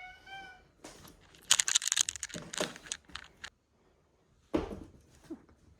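A cat's meow trails off at the start, then about two seconds of rapid crinkly clicking and rustling, and a single thump about four and a half seconds in.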